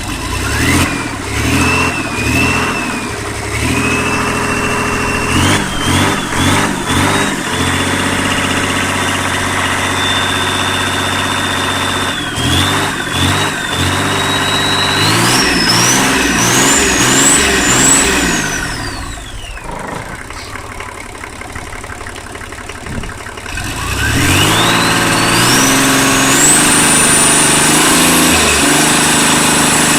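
Nissan SD33T6 3.3-litre six-cylinder turbo diesel marine engine being revved repeatedly on a test run, with a high turbo whine rising and falling with the revs. It drops back to idle about two-thirds of the way through, then revs up again and holds high revs to the end.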